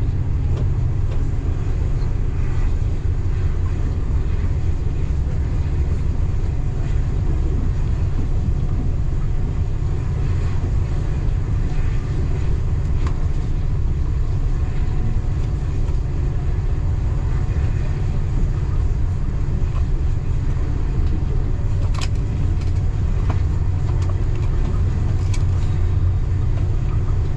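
Local passenger train running along the track, heard on board as a steady low rumble. A few sharp clicks come near the end.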